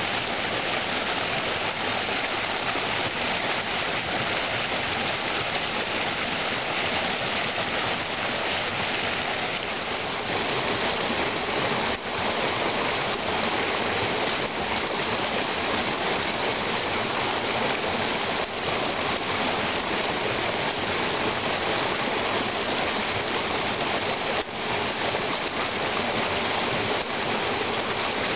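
Spring meltwater rushing in a steady, even stream over a small waterfall.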